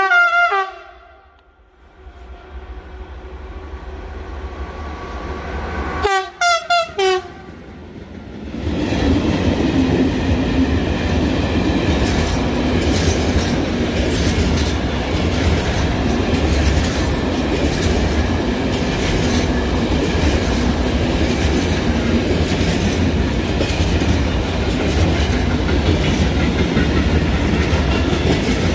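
A train horn sounds briefly at the start, dropping in pitch. About six seconds in come three short horn blasts, and then a freight train rolls past with a steady rumble and the clickety-clack of its wheels over the rail joints.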